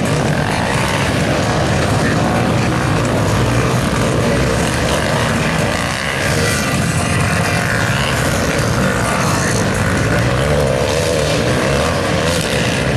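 Supermoto motorcycles running on a race track, a loud steady engine noise with a wavering pitch near the end.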